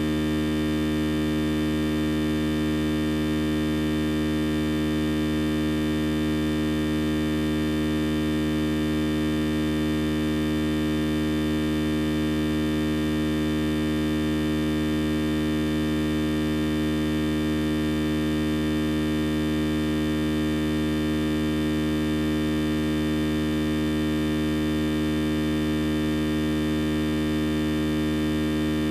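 A loud, perfectly steady electrical hum-buzz with many overtones, unchanging in pitch and level. It sets in as the speech breaks off mid-sentence, which points to a fault in the recording's audio chain.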